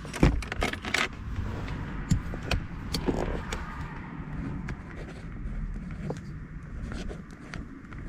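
Rummaging through small items for a pen: a quick run of clicks and rattles in the first second, then scattered clicks, over a low steady rumble.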